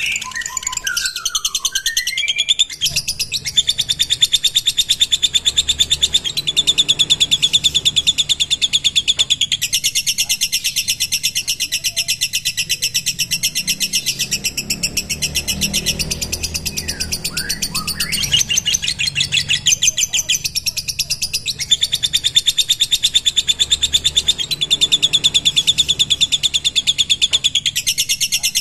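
Lovebird giving its long, very rapid chattering trill (the 'ngekek' keepers train for), in runs of several seconds each broken by short pauses. A few quick rising and falling chirps come near the start and again about two-thirds of the way through.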